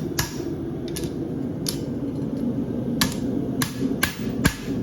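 Hammer blows on hot steel at the anvil, about seven sharp ringing strikes at uneven spacing, bumping up the toe of a handmade horseshoe to thicken it. A steady low hum runs underneath.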